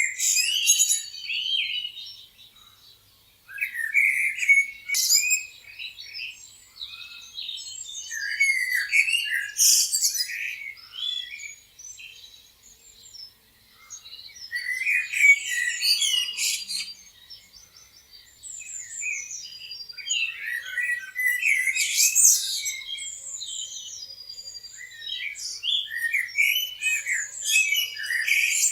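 Several songbirds chirping and singing together: quick overlapping chirps, trills and whistled notes in clusters, with brief lulls between them.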